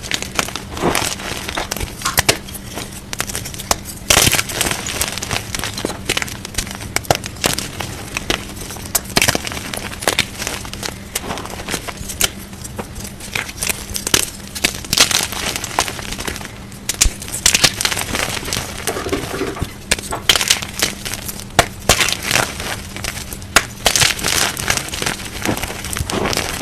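Colourful blocks of gym chalk being crushed, giving an irregular, unbroken run of crunching and crackling as they crumble.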